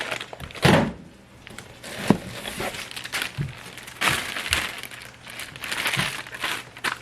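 Car parts and their packaging being handled: rustling and crinkling in a few swells, with several light knocks and clicks.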